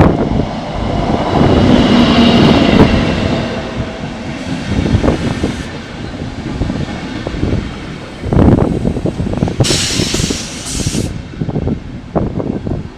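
Locomotive-hauled passenger train running along the platform, a loud rumble of wheels on the rails, with a faint whine about two seconds in and a short burst of high hissing about ten seconds in.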